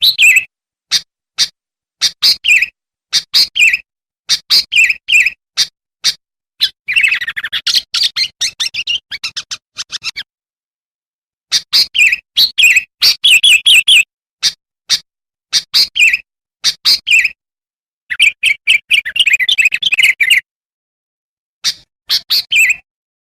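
Sooty-headed bulbul lure calls: loud, repeated short chirping phrases, with two longer runs of fast chattering, broken by short gaps of dead silence.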